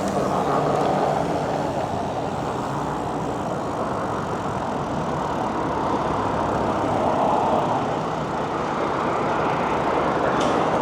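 Steady road traffic noise of passing motor vehicles, swelling briefly as vehicles go by.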